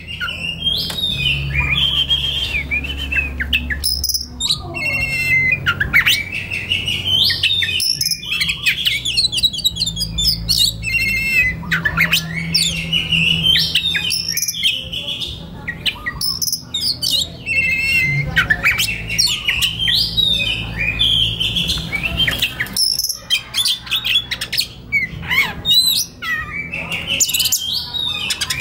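Oriental magpie-robin (kacer) singing without a break: a rapid string of varied whistles, trills and chirps, over a steady low hum.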